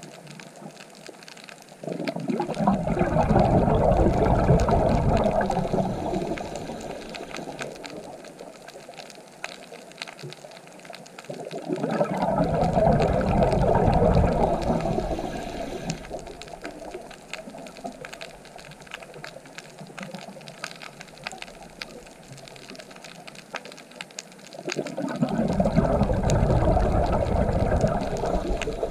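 Underwater recording over a reef: a scuba diver's exhaled bubbles rushing and gurgling in three long swells about ten seconds apart, with a steady faint crackle of clicks in between.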